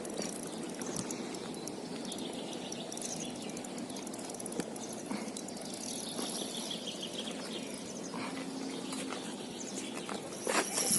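Outdoor ambience with a steady low rushing background and small birds chirping high above it; a few clicks and rustles near the end.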